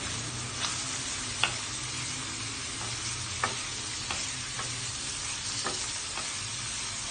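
Garlic, ginger and onion sizzling in hot margarine in a stainless steel pot, with a wooden spatula stirring and knocking against the pan about six times.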